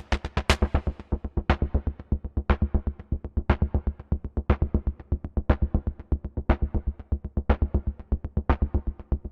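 Moog DFAM analog percussion synthesizer playing a driving, gritty sequence: a fast, steady pulse of deep hits. Within the first second the bright, hissy top of the hits drops away, leaving one bright accented hit about once a second.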